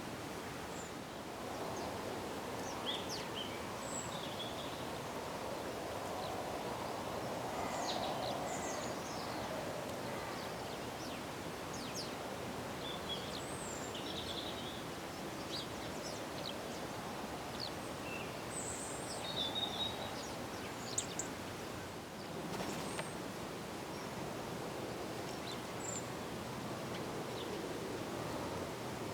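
Small garden birds giving short, high chirps and call notes scattered throughout, over a steady background rush of noise.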